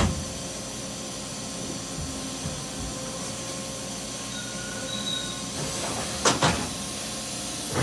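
Matsuura H Plus 300 horizontal machining center's automatic pallet changer swapping pallets: a steady mechanical hum with faint whining tones, then two short clunks about six seconds in.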